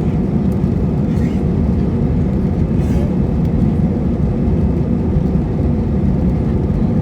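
Steady low rumble of an Airbus A320 heard inside the passenger cabin: engine and airflow noise, even throughout.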